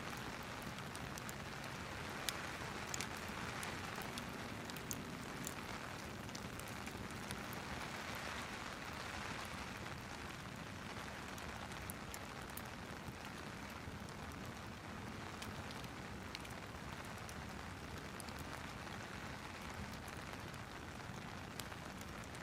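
Steady rain falling, with scattered sharp crackles from a wood fire in a fireplace, most of them in the first few seconds.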